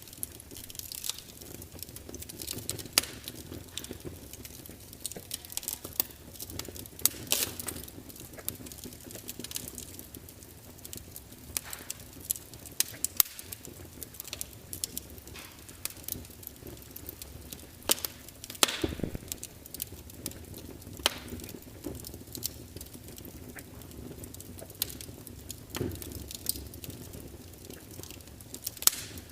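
Log fire crackling, with irregular sharp pops and snaps over a low steady rush of burning wood.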